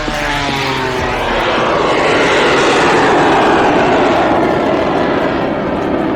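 Fixed-wing aircraft flying past, its engine noise swelling to a peak about three seconds in and easing a little after. Its pitch drops as it passes.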